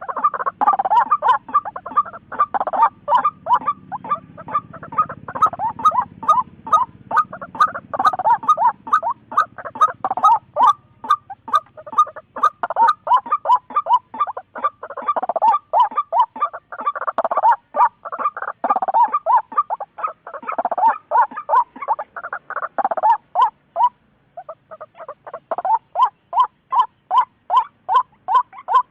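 Waterhen (chim quốc) calling: a long, fast run of the same call note repeated about three or four times a second, with a brief pause near the end before the calls resume.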